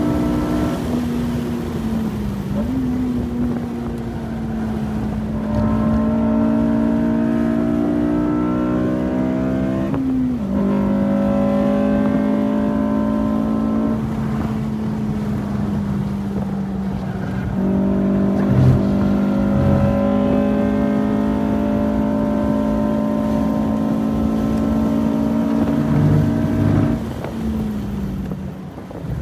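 Honda Civic Si's four-cylinder engine pulling hard at high revs, heard from inside the cabin over steady road and wind noise at around 85–90 mph. The pitch climbs slowly through long pulls, dips briefly about ten seconds in, and falls away near the end.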